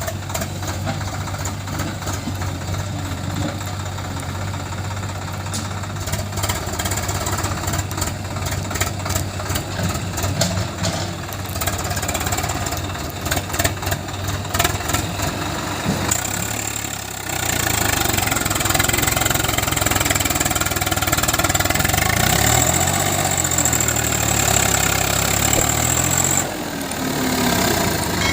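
Heavy diesel engine running steadily, then revving harder and louder for about nine seconds from a little past halfway, its pitch climbing, before dropping back near the end.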